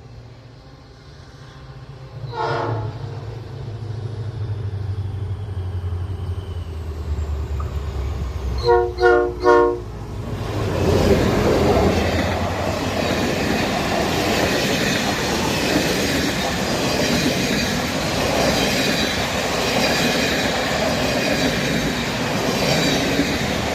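ONCF DH-416 locomotive approaching with a low engine rumble that grows louder, sounding one short horn toot and then three quick horn blasts in a row as a salute. The train then passes close by with a steady roar and clickety-clack of wheels on the rails.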